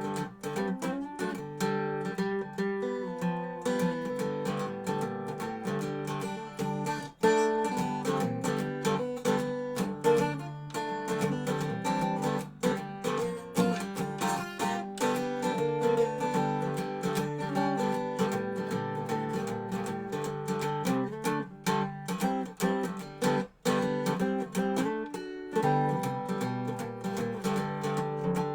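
Dobro resonator guitar being played: a continuous run of plucked notes and chords.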